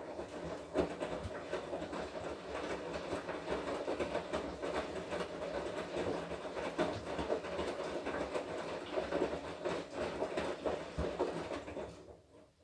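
Washing machine drum turning through a wash cycle, with the wet laundry tumbling and sloshing in a steady clatter of small knocks. It starts with a click and stops about twelve seconds in, as the drum pauses before turning again.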